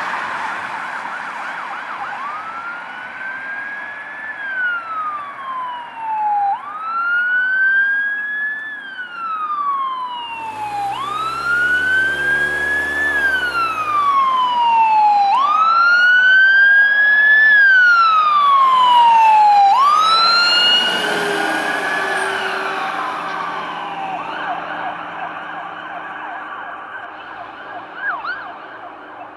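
Emergency vehicle siren on a wail, rising and falling in pitch about every four seconds for five cycles. It grows louder, then fades away over the last few seconds as the vehicle passes. A brief deep rumble comes in about halfway through.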